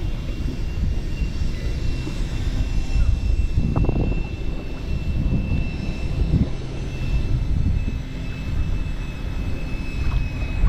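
Wind buffeting the microphone, an uneven low rumble that rises and falls in gusts. A thin, steady high tone runs through it.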